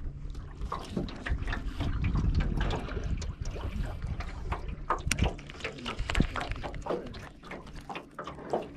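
Water lapping and trickling against the hull of a small flat-bottomed boat, with many small irregular ticks and splashes.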